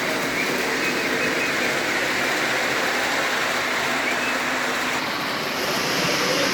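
Model train running along its track: a steady, even noise.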